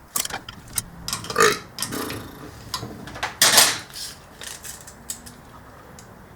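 Metal clicks, knocks and scrapes from a coilover being adjusted, as the threaded spring collar is turned to compress the spring and add preload. Two longer, louder rasping scrapes come about a second and a half in and again near the middle.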